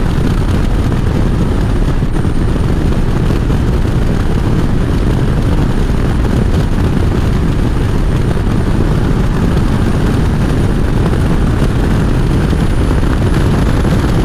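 Harley-Davidson V-twin motorcycle riding at speed: steady wind rush over the rider's microphone mixed with a low engine rumble.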